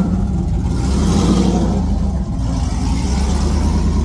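Truck engine running and rumbling close by as the truck moves slowly past, with a swell of engine noise about a second in.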